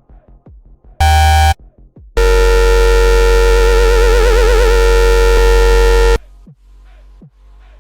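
Serum software-synth lead: a short loud note about a second in, then a long held note whose pitch wobbles in vibrato through its middle before it cuts off suddenly. A quiet electronic beat plays under it.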